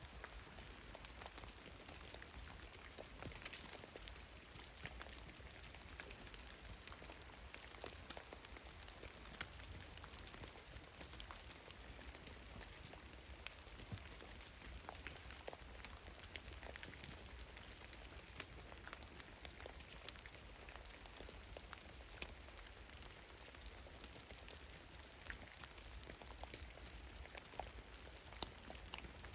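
Drops of meltwater falling from melting snow in a forest: irregular, scattered soft taps and patters, several a second, over a faint steady hiss and a low rumble.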